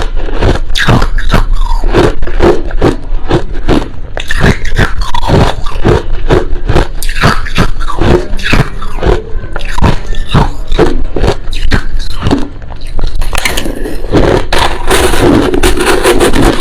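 Crushed ice being bitten and chewed close to the microphone: a rapid, continuous run of sharp crunches, turning into a denser, grinding crunch near the end.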